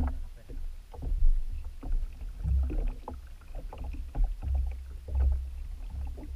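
Water lapping and knocking against the hull of a small wooden boat, in short uneven splashes and knocks over a low rumble that swells and fades.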